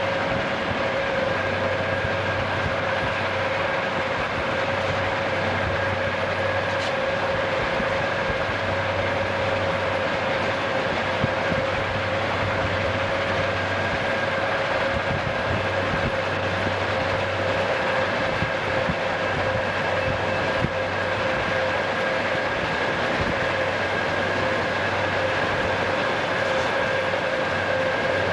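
Southern Pacific freight train's diesel locomotives running at track speed, heard from a vehicle pacing alongside: a steady rumbling noise with two steady high tones.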